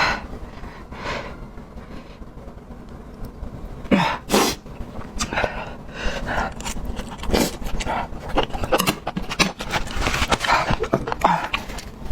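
A person eating close to the microphone: irregular chewing with sharp, breathy exhalations, gasps and cough-like puffs of breath.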